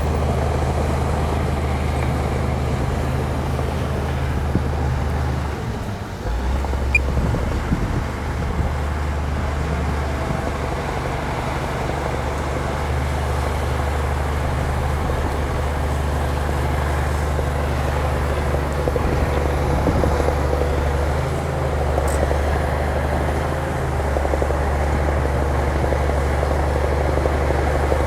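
Heavy earthmoving machine's diesel engine running steadily, a low rumble that dips and changes briefly about six seconds in, like a change of throttle or load.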